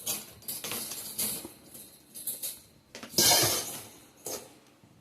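Greenhouse frame poles and shelf-frame parts clattering and rattling as they are handled and fitted together, in a few irregular bursts, the loudest about three seconds in.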